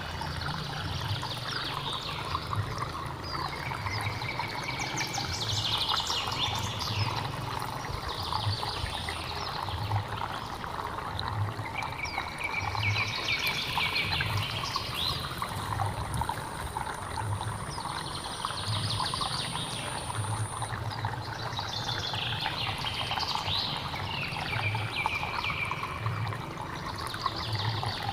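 Running water trickling and pouring steadily, with birds chirping in repeated calls every few seconds over it.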